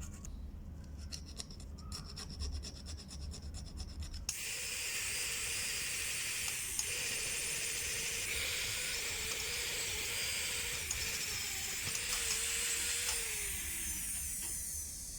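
Quick, repeated rubbing strokes, as in sanding or filing a small workpiece by hand. About four seconds in, a small power tool starts and runs steadily, then slows and stops near the end.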